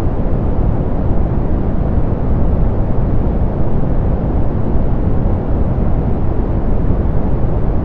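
Steady, softened pink noise: an even hiss with most of its weight in the low end and little treble, unchanging throughout.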